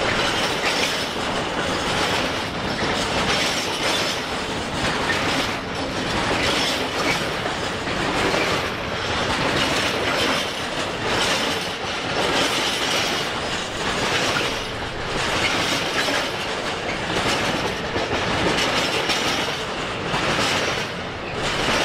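Empty container flat wagons of a freight train rolling past close by: a steady rumble with a rhythmic clatter of wheels over the rail joints, swelling again and again as each wagon passes.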